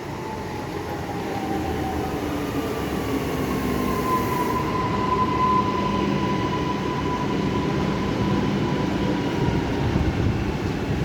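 Passenger train running past on the track, its rumble growing louder, with a high tone that slides slowly in pitch over it.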